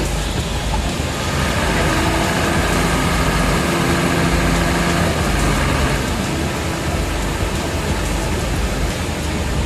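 A motor vehicle's engine running steadily with a low rumble. From about a second in, a steady droning tone sits over it, dropping away around six seconds in.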